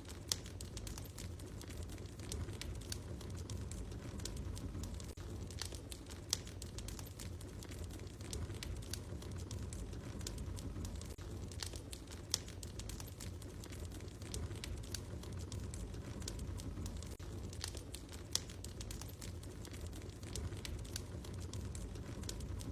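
Wood fire crackling in a fireplace: a steady low rumble of flames with constant small crackles and a few louder pops.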